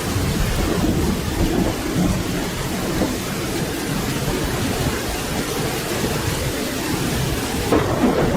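Steady rain with a continuous low rumble of thunder beneath it.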